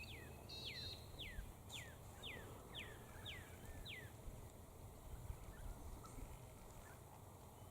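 A bird calling: a run of about eight quick whistled notes, each falling in pitch, about two a second, stopping about four seconds in.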